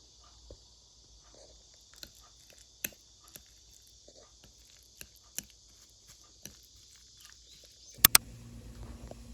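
Scattered light clicks and taps, like tableware handled during a meal, over a steady high insect drone. Two sharp, louder clicks come near the end.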